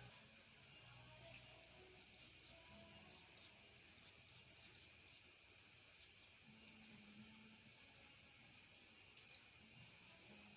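Cave swiftlets (linchi swiftlets) calling: a rapid run of faint, high twittering chirps for the first few seconds, then three louder, short, high calls that each sweep downward in pitch in the second half.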